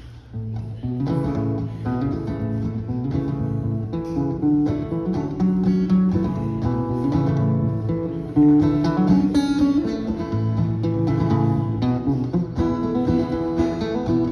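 Acoustic guitar strumming chords steadily, the instrumental intro of a song before the singing begins; it comes in about half a second in.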